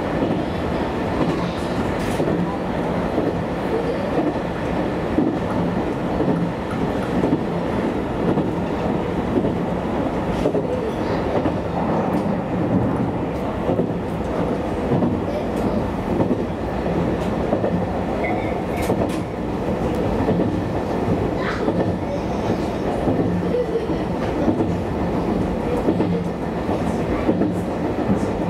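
JR Kyushu YC1 series hybrid diesel-electric railcar running steadily along the line, heard from the cab: a continuous running rumble with the wheels clicking over rail joints now and then.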